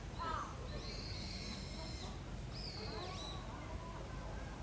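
Birds calling outdoors over a steady low background rumble: a crow's caw just after the start, then thin, high whistled calls from smaller birds twice, with another fainter call near the middle.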